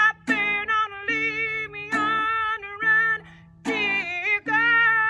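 A woman singing a folk song with guitar accompaniment, in short phrases, settling into a long held note near the end.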